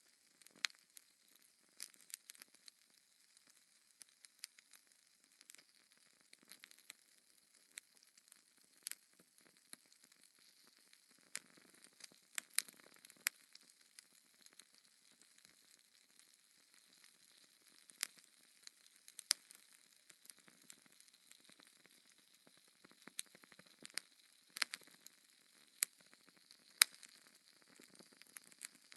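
Wood fire crackling in a fireplace: a faint steady hiss with irregular sharp pops, a few louder ones scattered through and the loudest near the end.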